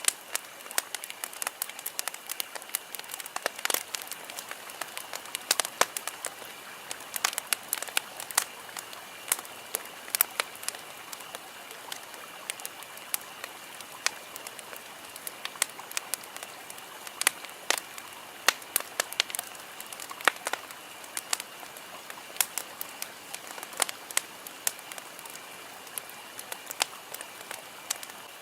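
Wood campfire crackling, with many irregular sharp pops over a steady hiss.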